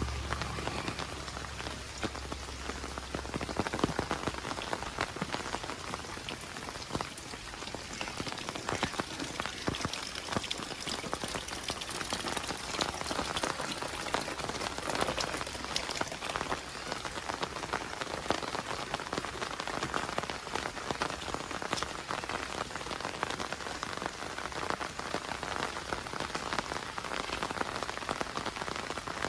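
Heavy monsoon rain falling steadily, with many close drops ticking on nearby surfaces. A low rumble sits under it for the first few seconds.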